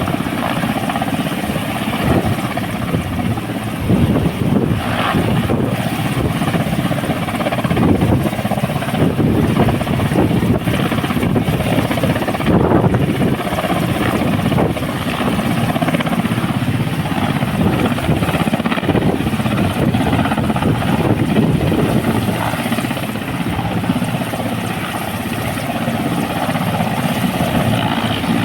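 A helicopter running loudly and continuously, its rotor and engine noise steady throughout.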